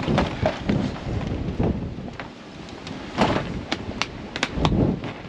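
Gusty wind buffeting the microphone in uneven bursts. A handful of sharp clicks or taps come about three to four and a half seconds in.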